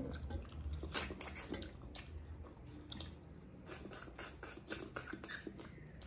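Two people chewing and smacking their lips over mouthfuls of rice and pork curry eaten by hand: a run of soft, irregular wet clicks and smacks.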